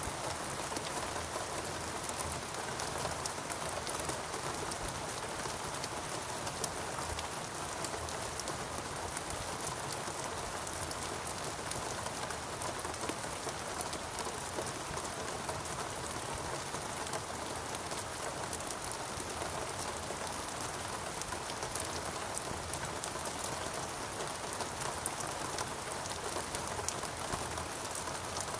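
Steady rainforest rain with dense pattering drops on leaves and surfaces, even and unbroken.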